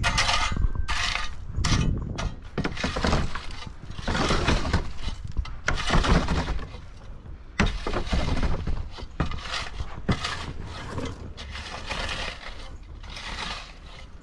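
Loose asphalt millings crunching and scraping in irregular surges as an ASV RT-40 skid steer works them, with the machine's engine running steadily underneath.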